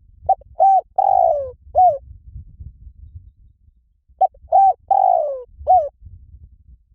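Spotted dove cooing: two identical phrases of four notes each, about four seconds apart. In each phrase the third note is the longest and falls in pitch.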